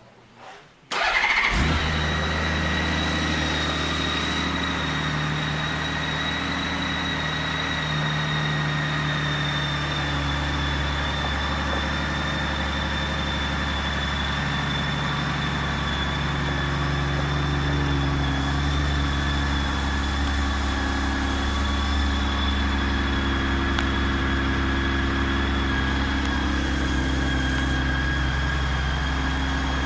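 Honda Gold Wing F6B's flat-six engine starting about a second in after a brief crank, then idling steadily, with a thin high whine alongside.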